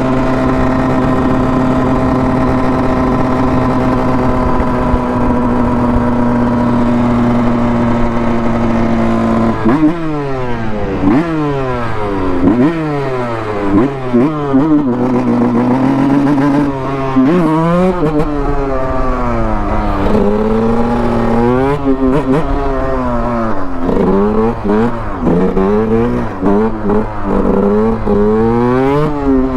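Dirt bike engine running at a steady pitch for about nine seconds, then revving up and down again and again as the rider works the throttle.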